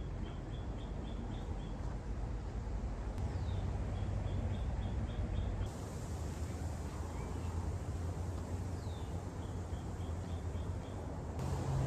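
A high chirping call: a short falling note followed by a quick run of about eight chirps, heard three times, a few seconds apart, over a low rumble of wind or handling noise.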